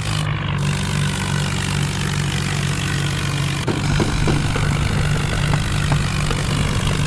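Diesel vehicle engine running steadily with a low, pulsing tone, and a few faint knocks from about four seconds in.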